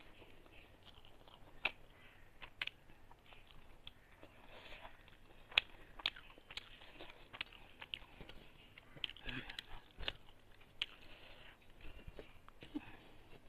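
Faint mouth sounds of chewing, with scattered small sharp clicks and soft rustles as fingers mix rice and prawns on a metal plate.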